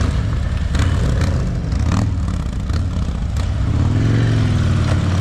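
Motorcycle engine running at low speed, with its pitch rising and falling on the throttle from about four seconds in. A few light clicks come over it earlier on.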